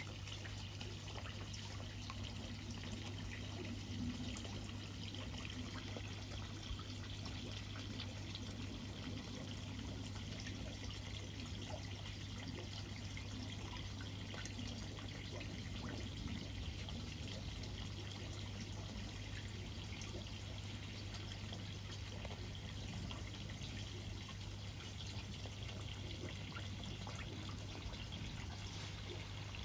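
Water running, trickling and pouring steadily with many small drips and splashes, over a steady low hum.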